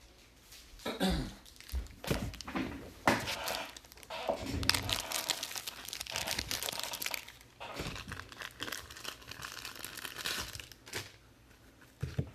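Trading card pack wrappers being torn open and crinkled by hand. The crinkling comes in irregular bursts with a few sharp snaps and is densest in the middle.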